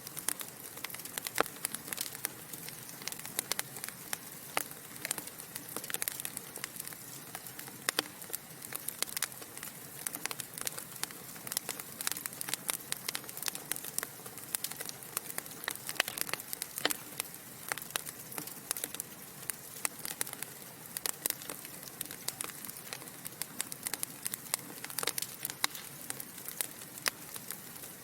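Wood fire crackling: a soft steady hiss with constant irregular pops and snaps from burning logs, a few of them sharper and louder than the rest.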